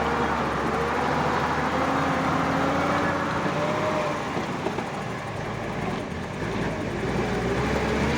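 Vintage army 4x4 truck running steadily, a low engine hum under a whine that drifts slowly up and down in pitch.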